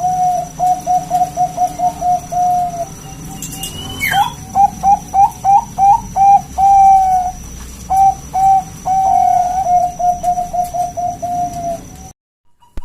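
Puter dove (a local collared dove) giving its loud, sharp bekur cooing call: runs of short, rapid coo notes with a few longer drawn-out coos. There is a brief rising squeal about four seconds in, and the sound cuts off suddenly near the end.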